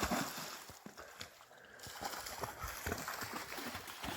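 Water splashing and sloshing irregularly as something wades through a shallow creek, loudest near the start.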